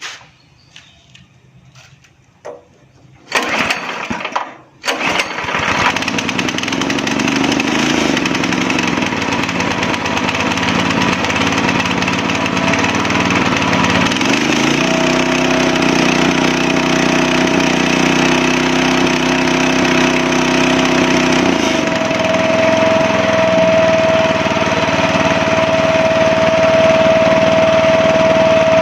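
Rotovator's small single-cylinder gasoline engine starting about three seconds in and then running steadily. About 14 seconds in it revs up, holds the higher speed for some eight seconds and drops back to a lower speed: the throttle now accelerates, after a caught spring that had stopped it from revving was freed and readjusted.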